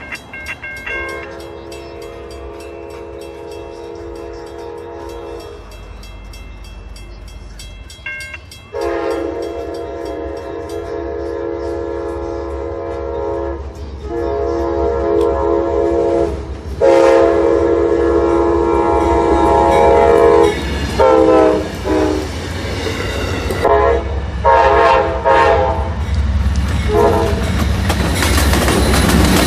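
Amtrak locomotive's multi-chime air horn sounding a long blast, then after a pause several more long blasts and a string of short toots. It grows louder as the train approaches, and near the end the rumble of the passing train comes in under the horn.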